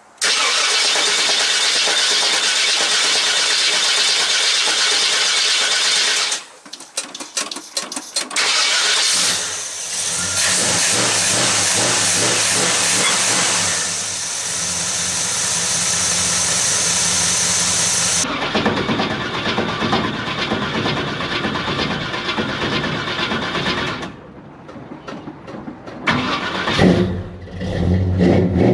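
1981 GMC C10's 350 small-block Chevy V8 with a 750 Quadrajet and no choke, cold-started: the starter cranks it for about six seconds, stops, and about nine seconds in the engine catches and keeps running. It runs on through long-tube headers and welded mufflers, rising in level near the end.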